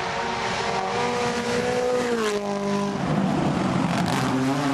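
Rally car engine running hard at high revs. Its pitch holds, drops about two seconds in, then a fresh engine tone takes over about three seconds in.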